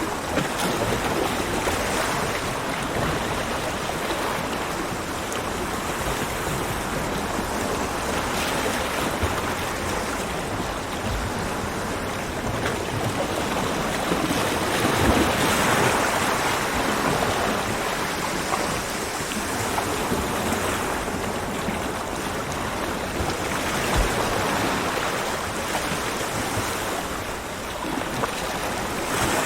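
Ocean waves breaking and washing up a beach, a continuous surf noise that swells and ebbs, with the biggest surge about halfway through.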